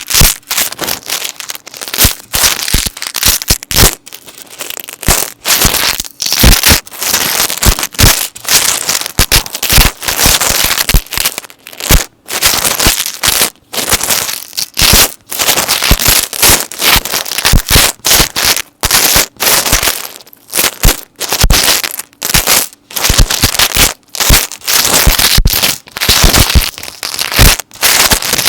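Metal necklace chains handled close to the microphone, jingling and clinking in quick, dense bursts of sharp clicks with brief pauses between handfuls.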